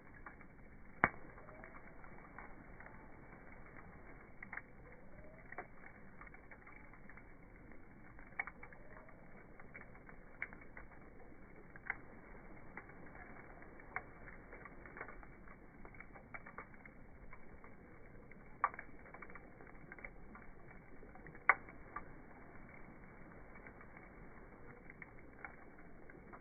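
Wood bonfire crackling: a low background hiss with irregular sharp pops every second or two, the loudest about a second in and twice in the last third.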